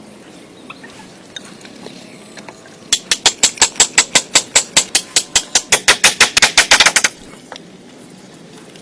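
A rapid run of about thirty sharp knocks, roughly seven a second, starting about three seconds in and stopping suddenly some four seconds later.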